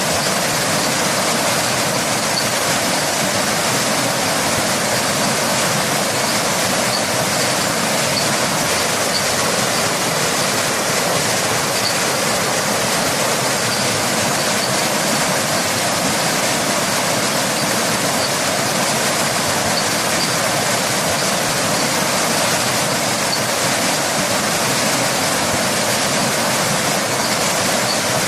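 Waterfall and rain: steady rushing of falling water, an even hiss that does not change.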